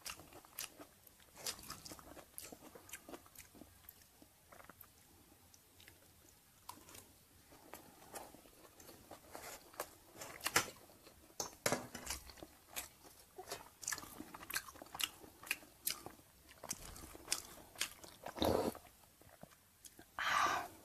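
Close-up mouth sounds of chewing and crunching a mouthful of stir-fried chicken organs and rice: irregular sharp clicks and soft crunches, a little louder near the end.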